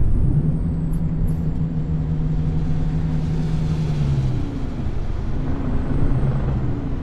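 Heavy diesel bus engine running with a steady note. The pitch drops about four seconds in, then wavers up and down.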